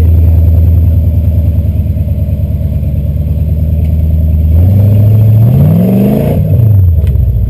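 Jeep CJ7 Renegade's V8 engine and exhaust running at a steady speed, then revved once about four and a half seconds in: the pitch climbs for under two seconds and drops back down.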